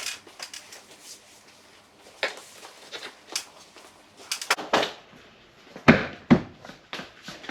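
Scattered knocks and clatters of wooden pieces being handled during carpentry work, with two heavier thumps about six seconds in.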